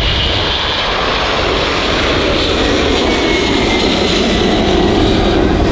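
Jet engines of a departing DHL Boeing 767-300 freighter at climb-out power, a loud, steady rush of noise as it passes close by.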